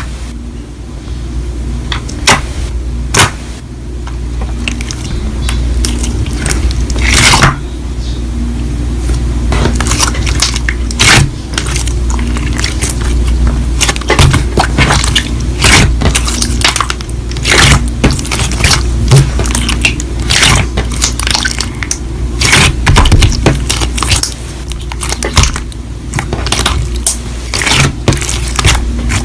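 Slime being squished and pressed by hand, giving irregular sharp clicks and crackles over a steady low hum.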